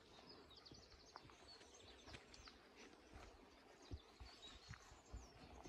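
Near silence in open woodland: faint, scattered chirps of small birds, with a few soft low thumps toward the end.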